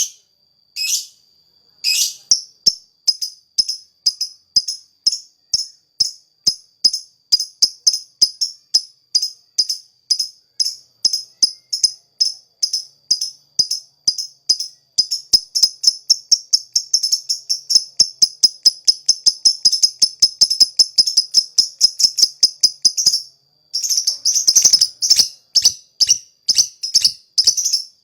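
A lakbet bird singing: a long run of short, sharp, high notes, a few per second at first, quickening into a fast continuous rattle, breaking off briefly near the end and then starting again.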